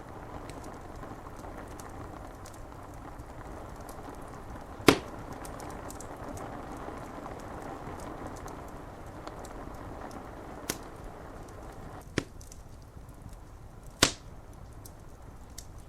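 Wood fire crackling over a steady hiss of rain, with faint ticks throughout and four sharp pops, the loudest about five seconds in and another near the end.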